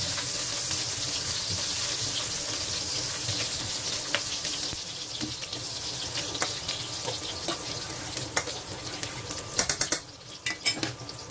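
Chopped garlic and onion sizzling in hot oil in a deep pan: a steady hiss with scattered pops. Near the end a quick run of sharp clicks, after which the sizzle quietens.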